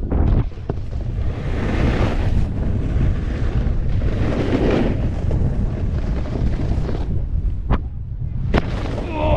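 Wind buffeting a GoPro's microphone while snowboarding at speed, with the board scraping over slushy snow. A short, quieter stretch is followed by a sharp knock near the end, the board landing a jump.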